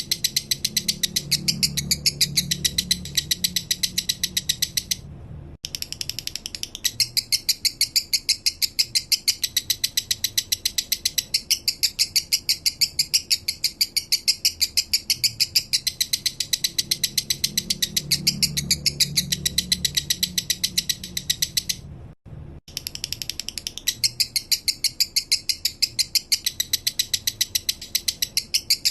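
Male lovebird singing its 'minor' song: a long, rapid run of short high chirps at an even pace, breaking off briefly twice.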